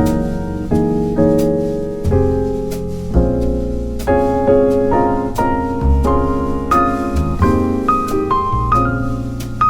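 Background piano music: chords played at a steady, even pace over a low bass line.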